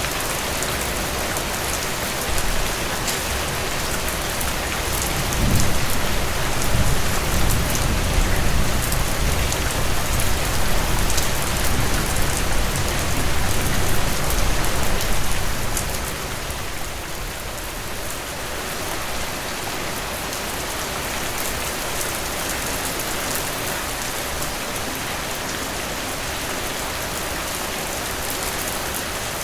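Heavy rain pouring down in a dense, steady hiss. From about five seconds in, a low rumble swells under the rain for some ten seconds, then fades away.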